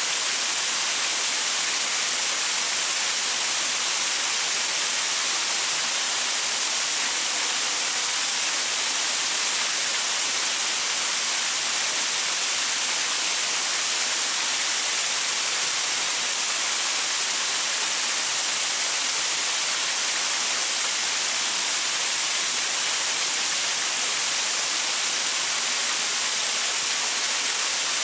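Small waterfall splashing over rocks: a steady, even rush of water with a bright hiss and little low rumble.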